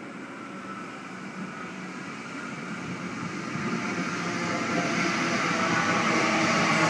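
Sydney Trains M set (Millennium) electric train, its traction motors giving several whining tones over a rail rumble, growing steadily louder as the cars move past along the platform.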